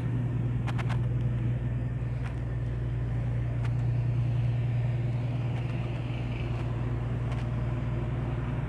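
Steady low hum of a moored ship's engine machinery running, even in pitch and level, with a few faint clicks over it.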